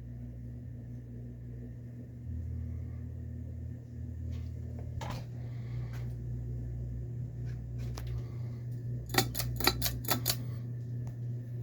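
Westinghouse InstaLock 42-inch ceiling fan running with a steady motor hum. A single sharp click comes about five seconds in, and a quick run of about six sharp clicks about nine seconds in.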